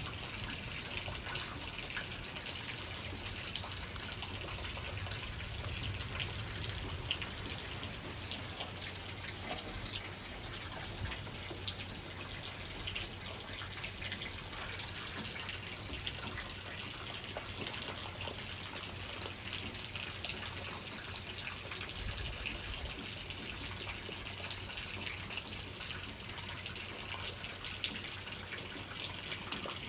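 Rain falling steadily: a constant hiss of water with a dense patter of individual drops.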